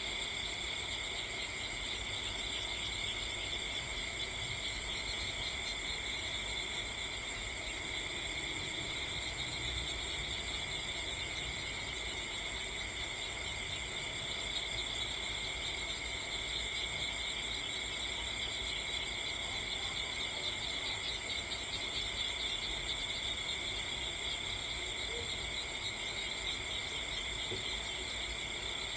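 Crickets chirping in a steady, unbroken chorus, several high-pitched trills layered at once.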